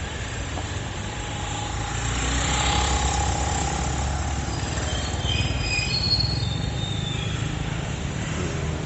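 Street traffic: a vehicle passing close, swelling from about two seconds in and then easing off, with high squealing tones in the middle of the pass.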